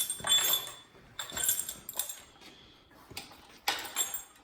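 Metal pieces clinking and jangling in several short bursts, loudest near the start and again near the end.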